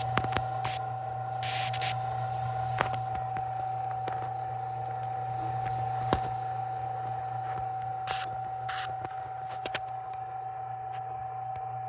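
Extreme Tumbler Rebel 17 rock tumbler running: a steady motor hum with a constant whine, broken by scattered sharp clicks and a few brief scraping rubs. The owner takes the rubbing for the barrel's edge rubbing on the plastic guides on the drive shaft, with some wobble in the through-rods.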